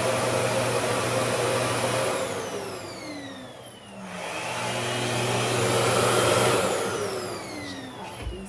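RevAir reverse-air blow dryer's suction motor running with a steady rushing whine, winding down about two seconds in, spinning back up about four seconds in, and winding down again near the end.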